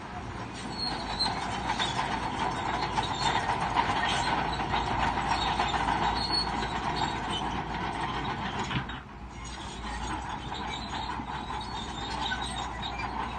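Crawler bulldozer working, its diesel engine running under load while the steel tracks clank and squeal. It eases off briefly about nine seconds in.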